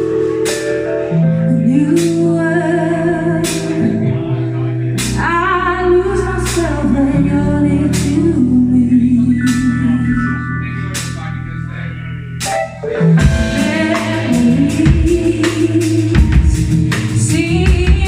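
Live band playing a song with singing over held chords and a steady ticking beat. Just after a brief drop about 13 seconds in, the full drums come in and the sound fills out.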